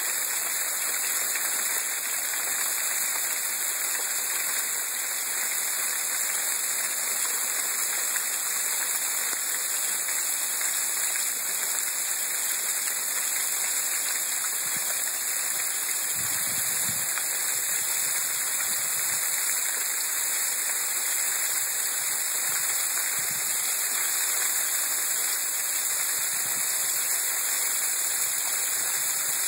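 Sleet and rain falling hard in a dense, steady hiss, the ice shower starting up again.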